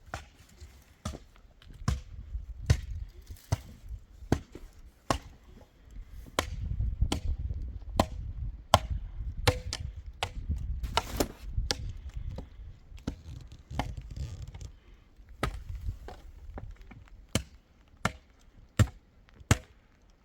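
Repeated sharp chopping strikes at an irregular pace, roughly one or two a second, over a low dull background noise that swells in the middle.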